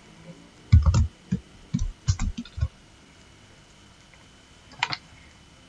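Computer keyboard keystrokes: a quick run of about eight taps in the first three seconds, then a short double click near the end.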